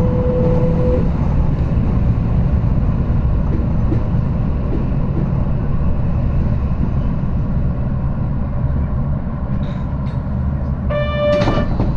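Electric commuter train running along the track, heard from the driver's cab: a steady low rumble of motors and wheels, with a whine that stops about a second in. Near the end a short high tone sounds once, then a few clicks.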